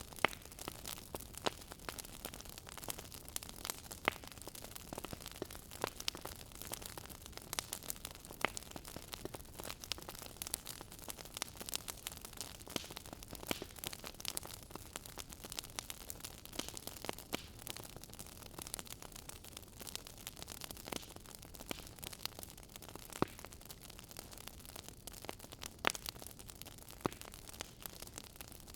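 Wood fire burning in a fireplace: continuous irregular crackling, with sharp pops scattered throughout over a soft hiss.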